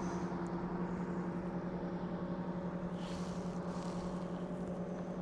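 A motorboat's engine droning steadily at one unchanging pitch, with a fast, even pulse.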